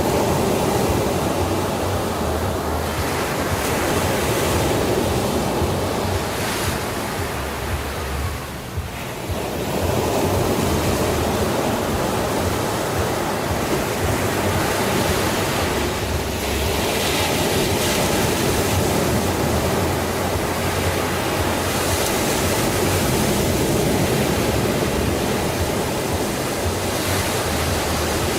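Sea surf: waves washing in continuously with slow swells, easing briefly about a third of the way in before building again.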